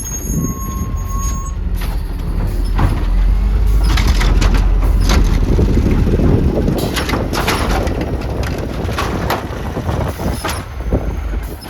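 Garbage truck running, its low rumble building to a peak a few seconds in, with a series of sharp metallic clanks and bangs. Wind buffets the microphone.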